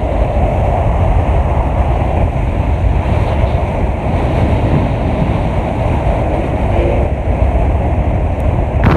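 Loud, steady wind buffeting the microphone: a dense low rumble with little high sound.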